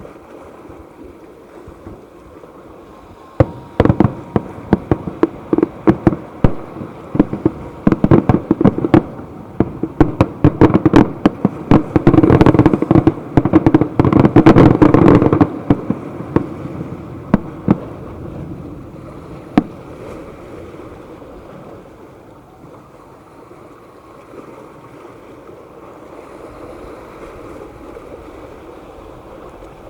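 A fireworks display: a rapid volley of sharp bangs and cracks begins about three and a half seconds in. It builds to a dense crackling salvo in the middle, then thins out to a few scattered bangs and dies away, leaving a steady background rumble.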